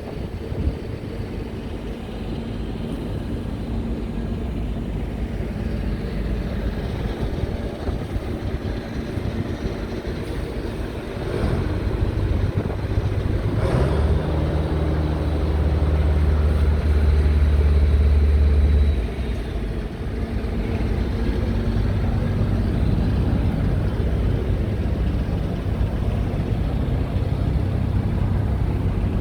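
Scania R tractor unit's diesel engine running steadily. About 12 seconds in it gets louder and deeper, is heaviest for about five seconds, and then settles back down.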